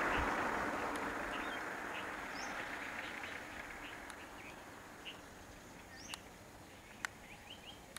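Birds chirping in short, scattered calls while a rushing noise fades away over the first few seconds, followed by two sharp clicks near the end.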